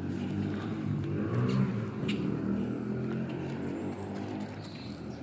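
A motor vehicle's engine running past, swelling to its loudest about a second and a half in and then easing off, with a single sharp click about two seconds in.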